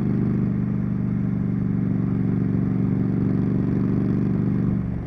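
Triumph Street Scrambler's 900 cc parallel-twin engine and exhaust running at a steady throttle. The engine note falls away sharply near the end as the throttle is eased off.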